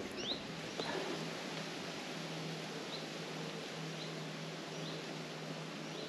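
A small bird giving short, high chirping call notes, repeated every second or so, over a faint steady low hum.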